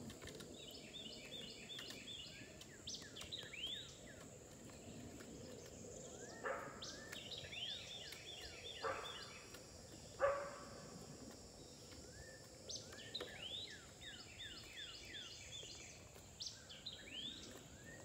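Birds calling in repeated bouts of short, quickly repeated sweeping notes, over a steady high insect drone. A few sharp knocks break in, the loudest about ten seconds in.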